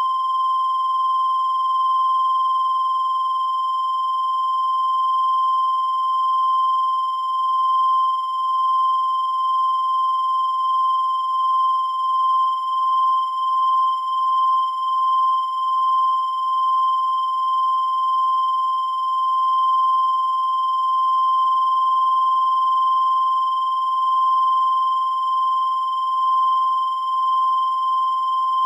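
Continuous high-pitched electronic tone, held at one pitch without a break, with a slight waver in loudness.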